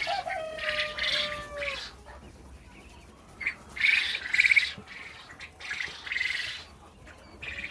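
Quail chicks chirping in repeated bursts of rapid high peeps, the loudest bout about four seconds in.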